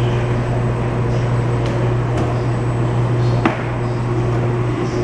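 Steady low hum of running laundry machines, with one sharp knock about three and a half seconds in.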